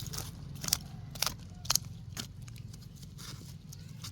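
Sharp dry crunches and clicks, about two a second over the first two seconds, then fainter, over a low steady hum.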